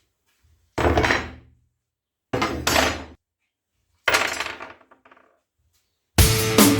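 Three separate metal clanks, each sharp at the start and ringing briefly before dying away, about a second and a half apart. Drum-kit music starts near the end.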